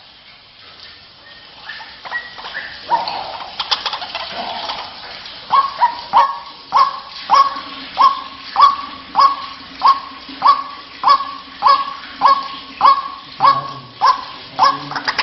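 White-breasted waterhen (ruak-ruak) calling: a few scattered croaking notes at first, then, about five seconds in, a steady run of repeated short downward-sliding calls, about one and a half a second.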